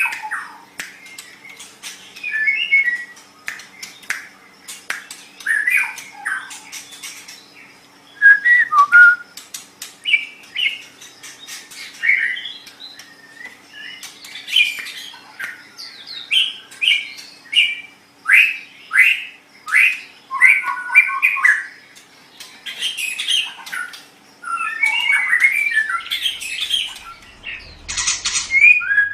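White-rumped shama (murai batu) singing a fast, varied song of short whistled and chattering phrases mixed with sharp clicks, delivered in bursts with brief pauses.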